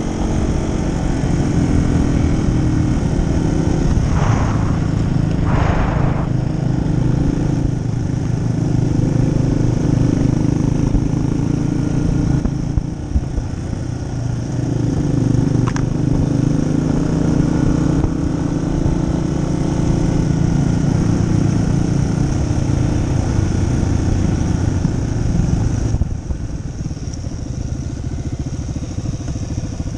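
A 2018 Yamaha XT250's air-cooled single-cylinder engine running under way on a dirt trail, its pitch shifting up and down with throttle and gear changes. About 26 seconds in it drops quieter as the throttle is rolled off.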